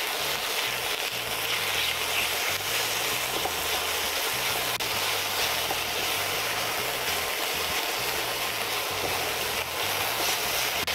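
Sliced chicken breast sizzling steadily in olive oil in a hot wok as it is stirred and spread with a silicone spatula, the meat just starting to cook. A faint low hum runs underneath.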